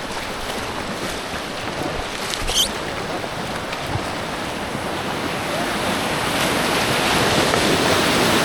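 Rushing water of a fast mountain creek heard from an inflatable kayak on the current, a steady rush that grows louder over the second half. A brief high squeak sounds about two and a half seconds in.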